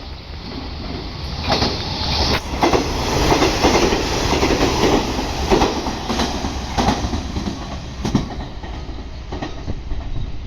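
The Ametsuchi sightseeing train, a two-car KiHa 47 diesel railcar, running through a station at speed. Its wheels clatter over the rail joints in repeated clacks over a steady rumble, loudest a few seconds in and then easing off as it goes by.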